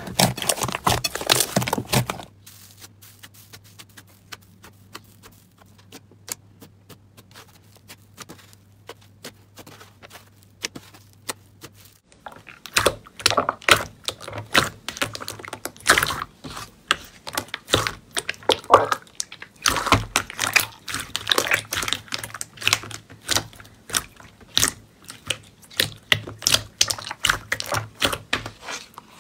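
Slime being squished and poked by hand, making rapid sharp crackling clicks and pops. After a louder, denser patch in the first two seconds, the clicks are faint and scattered, then grow louder and come in dense clusters from a little under halfway through.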